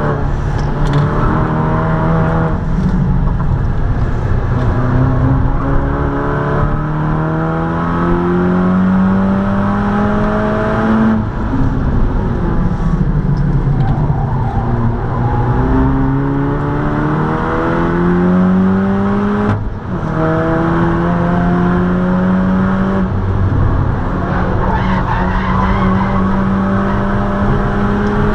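Seat Leon Cupra 280's turbocharged 2.0-litre four-cylinder with an aftermarket exhaust, heard from inside the cabin at full throttle: the engine note climbs through the revs, falls away under braking for a slow corner near the middle, then climbs hard again, with a brief cut at an upshift about two-thirds of the way through.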